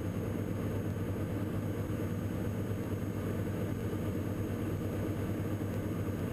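Steady drone of a Diamond DA42 NG's engine and propeller in the cockpit, on a single-engine approach with the right engine failed for training.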